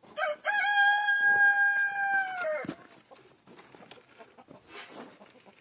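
Rooster crowing once: a short opening note, then a long held call that drops in pitch and fades out just under three seconds in.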